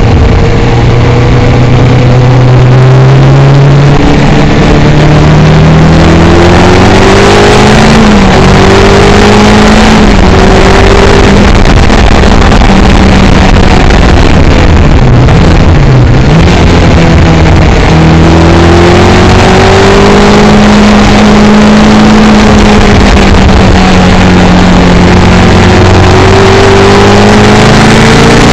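Caterham sports car engine at full throttle, its pitch climbing through each gear and dropping at the gear changes, then falling as the car slows. A steady rush of wind noise over the open cockpit runs under it.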